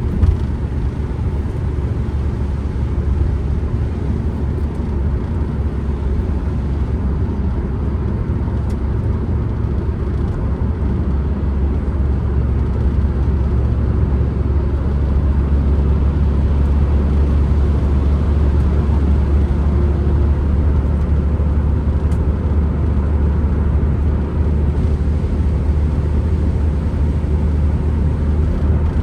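Steady low rumble of engine and road noise inside a moving Ford Transit Connect van, growing slightly louder about halfway through.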